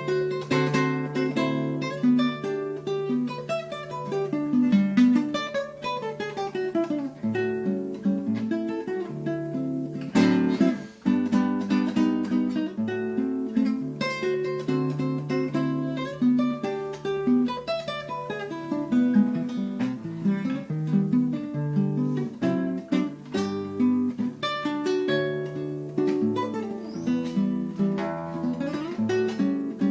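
Acoustic guitar playing a choro: fast plucked melodic runs over a moving bass line. A loud chord comes about ten seconds in, followed by a momentary break.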